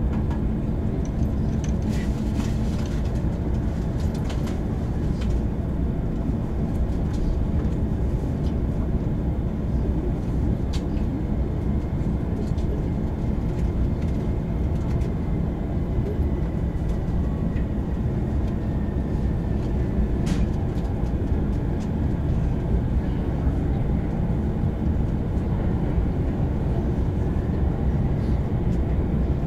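Steady running rumble of a Shōnan–Shinjuku Line commuter train as heard inside its Green Car, with a few sharp clicks and a faint high tone that drifts slowly downward in the middle.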